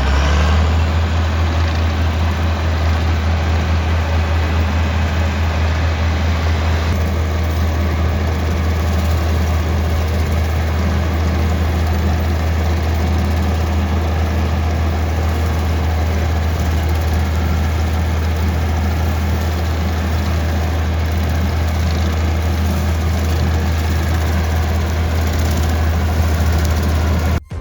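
The Massey Ferguson 1130's Perkins 5.8 L six-cylinder diesel engine running steadily at a constant speed with a deep, even drone. It cuts off abruptly near the end.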